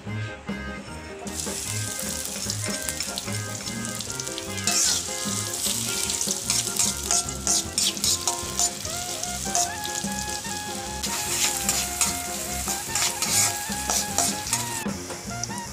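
Hot oil in a wok sizzling and crackling as sliced shallots, garlic and chilies are dropped in and stirred. The sizzle starts suddenly about a second in and grows louder and more crackly a few seconds later.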